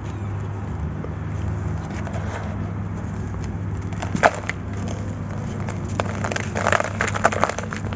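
Dry grey sand-cement being crunched and crumbled: a sharp crack about four seconds in, then a dense run of gritty crackles near the end, over a steady low hum.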